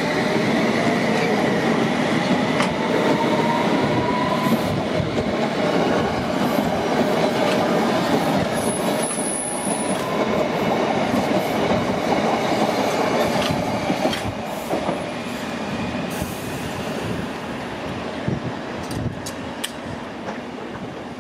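London Underground S8 Stock train pulling away. Its traction motors whine upward in pitch over the first few seconds, and its wheels click over rail joints, with a brief high wheel squeal on the curve about nine seconds in. The sound fades as the train moves off.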